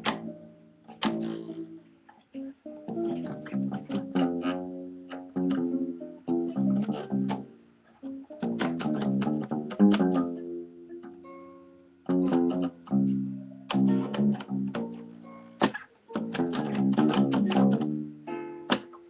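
Acoustic guitar and acoustic bass guitar played together: strummed and plucked chords in short phrases, with brief pauses between them.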